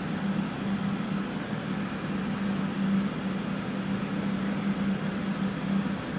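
Electric fans running to clear soldering fumes: a steady rush of air with a constant low motor hum.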